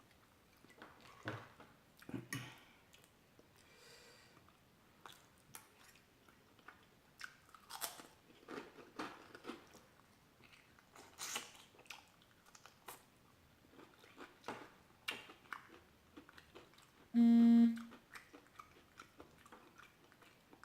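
Close-miked eating: a person chewing and biting food, with many short scattered crisp clicks and mouth smacks. About two-thirds of the way through comes one brief pitched hum, the loudest sound.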